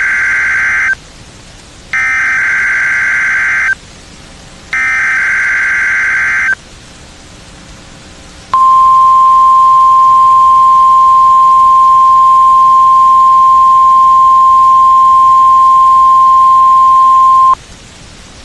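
NOAA Weather Radio Required Weekly Test signals. Three harsh, buzzing SAME digital header bursts come first, the first already under way, each about a second and a half long. After a short pause comes the steady 1050 Hz warning alarm tone, which holds for about nine seconds and then cuts off sharply. These are the attention signals that switch on special weather-alert receivers.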